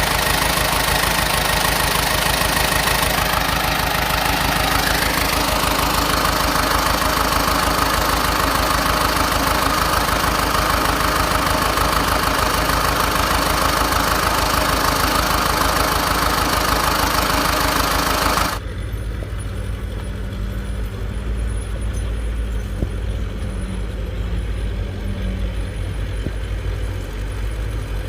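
Diesel engine of heavy earthmoving machinery running, loud and dense at first. About two-thirds of the way in the sound cuts abruptly to a quieter, lower engine rumble.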